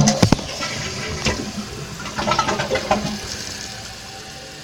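Kohler Wellworth toilet tank flushing: a few sharp clacks at the start, then water rushing out of the tank in surges, easing to a steadier, quieter hiss near the end.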